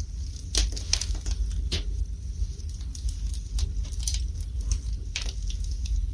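Wood fire burning in a fireplace, crackling and popping at irregular moments over a low steady rumble.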